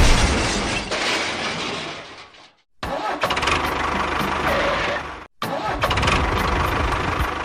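Engine running, in short spliced pieces that cut off abruptly and start again about every two and a half seconds.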